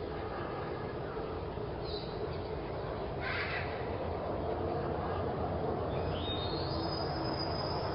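A bird gives a couple of short calls over a steady background hiss, and a high tone rises near the end.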